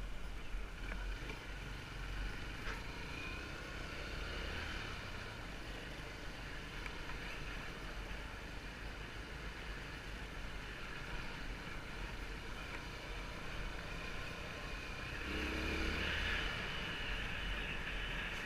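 Motorcycle engine running steadily while riding, growing louder for a couple of seconds near the end.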